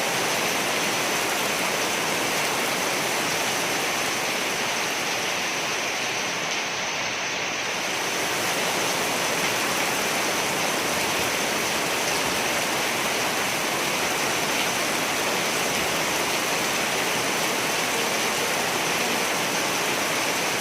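Steady rain falling, an even hiss of water with no clear thunder.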